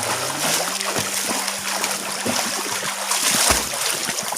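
Water splashing and sloshing irregularly as a person swims and paddles in a pool, with a low steady hum underneath.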